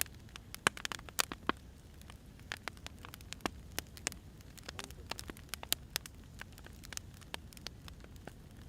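Burning firewood crackling, with sharp, irregular pops over a low steady rumble. The loudest pop comes just under a second in.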